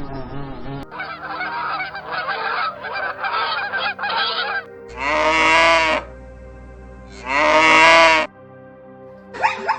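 Animal calls: a run of quieter repeated calls, then two loud, drawn-out calls about a second long each, rising and then falling in pitch.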